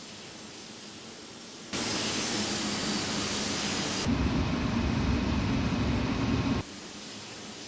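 Jet engine noise from a landing Boeing 767-200, shifting abruptly several times. It starts as a quieter hiss, becomes a loud rush with a faint high whine about two seconds in, turns into a loud deep rumble, and drops back to a quieter hiss near the end.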